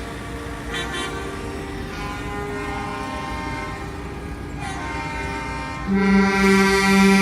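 Truck horns sounding, several steady tones overlapping and changing pitch. About six seconds in, a much louder horn starts, pulsing on and off in short blasts.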